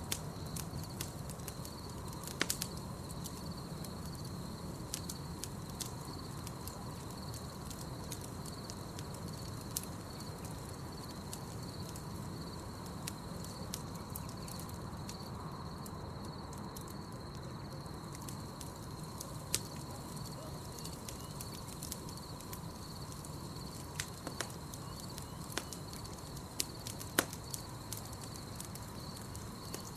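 Campfire crackling, with scattered sharp pops (a few louder ones), over a low rumble of the fire. Beneath it runs a steady high night-insect trill.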